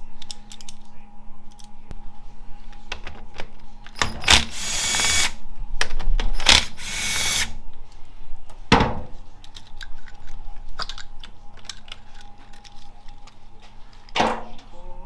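Cordless power driver run in two bursts of about a second each, spinning out bolts during a transmission teardown. There are two sharp metallic knocks and small clicks of parts and tools being handled.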